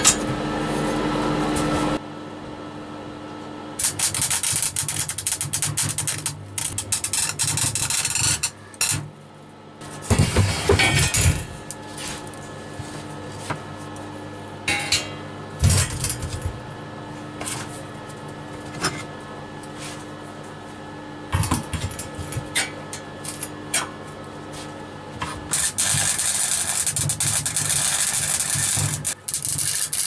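Steel mini bike frame being worked: scattered metal clanks and knocks of tools on square tube, and stretches of electric arc welding crackle, one about four seconds in and a steady one near the end.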